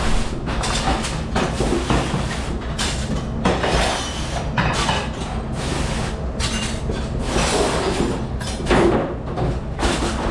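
Commercial dish-room machinery running with a steady hum, under irregular clatter and rushing noise.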